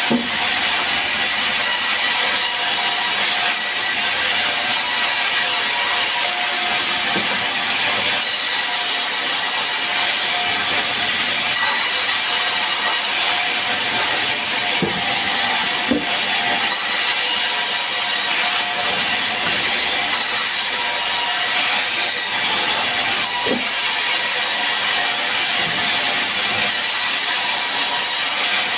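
A sawmill's power saw running steadily through sengon wood, a loud, even hiss with faint steady tones and a few light knocks.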